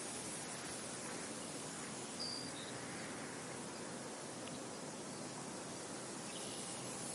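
Wind blowing steadily through a field, an even rushing noise. A bird gives a short high chirp about two seconds in and a fainter call near the end.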